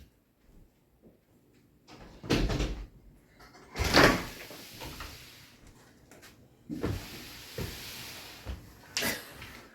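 A few sudden thumps and knocks, the loudest about four seconds in, with a rushing hiss between them.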